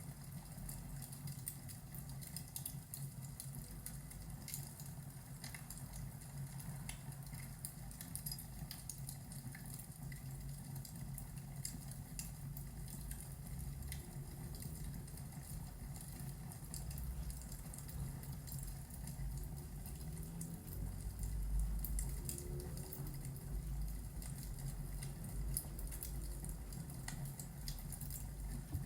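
Ambience track of a fireplace crackling over steady rain, with a deep rumble of distant thunder swelling about two-thirds of the way through.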